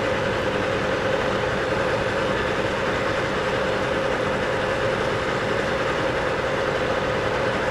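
South Bend 14½ lathe running at about 562 rpm while its tool takes a turning cut along a long shaft: a steady machine hum with a constant tone, unchanging throughout.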